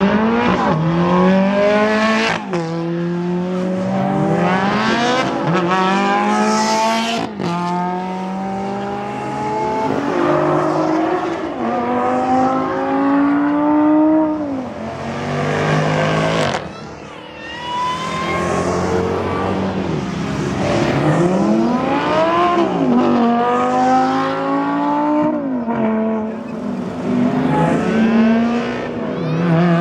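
Supercar engines accelerating hard, one car after another. Each engine revs up with a rising pitch that drops back at every gear change before climbing again.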